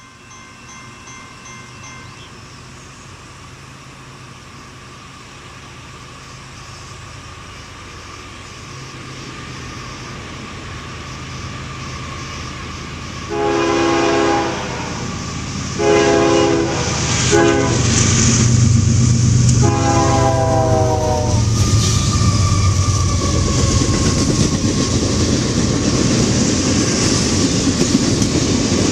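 Diesel freight locomotive approaching with a rising engine rumble, then sounding its multi-chime air horn four times (long, long, short, long), the standard grade-crossing signal. Double-stack container cars follow, passing close by with a loud steady rumble and wheel clickety-clack.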